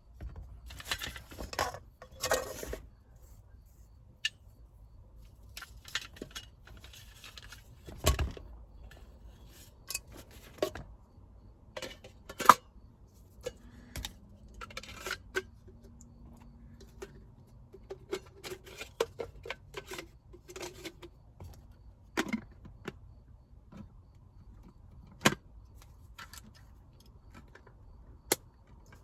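Kitchenware and small gear being handled: a string of light clinks, clicks and rustles, with a dull thump about eight seconds in and a few sharper clicks later on.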